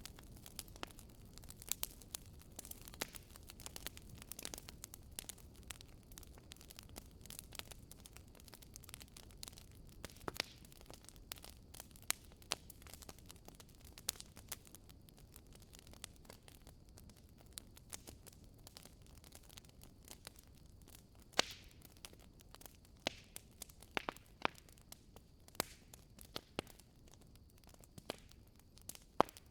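Wood fire crackling in a fireplace: irregular snaps and pops over a low, steady hiss of burning, with a few louder pops in the second half.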